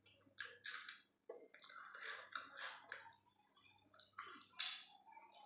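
Wet chewing and lip smacking of a person eating chicken curry and roti by hand, in irregular short bursts, with one sharper smack about four and a half seconds in.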